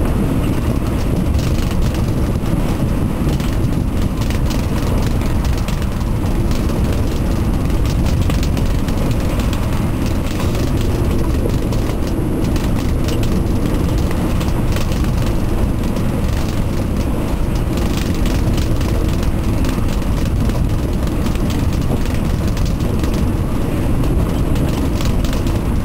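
Strong wind, around 30 knots, rumbling on the microphone of a sailing yacht, with the rush of the sea. The noise is loud and steady, heaviest in the low end, with no pauses.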